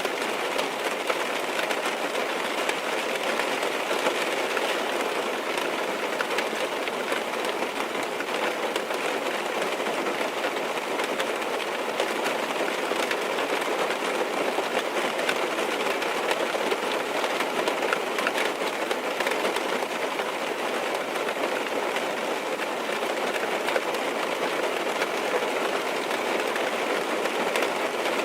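Steady rain tapping on a car's roof and windows, heard from inside the car: a constant hiss of many small drop hits, with no engine or road rumble under it.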